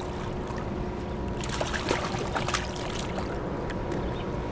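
River water rushing steadily, with a few short sharp clicks about two seconds in.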